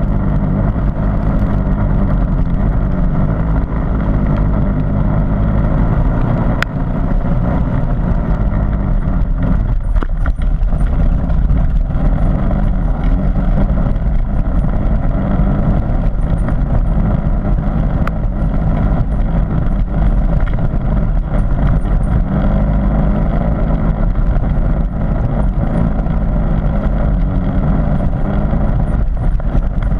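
Harley-Davidson MT350's single-cylinder four-stroke engine running under way on a muddy trail, its pitch rising and falling with the throttle, with a few brief knocks.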